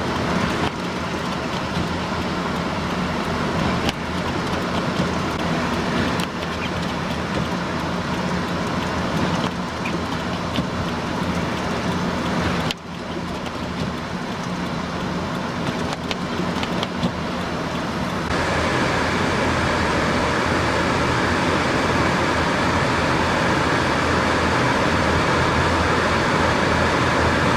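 Steady vehicle noise: an engine's low hum under a rushing of wind. The rush turns louder and hissier about two-thirds of the way through.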